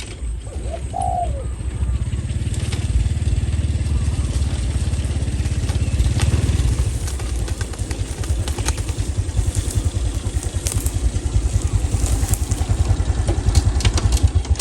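A single spotted dove coo about a second in, over a loud, continuous low rumble that pulses quickly and evenly.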